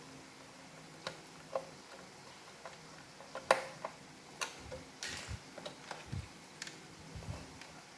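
Irregular light clicks and taps of a robot vacuum's plastic parts being handled and fitted together, the sharpest about three and a half seconds in, with a brief scraping rustle around five seconds in.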